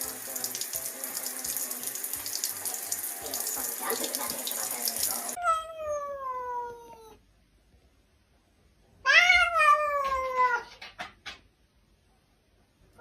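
Water running from a tap for about five seconds, stopping abruptly. Then a cat meows twice: one long meow falling in pitch, and after a pause a louder meow that rises and falls, followed by a few faint clicks.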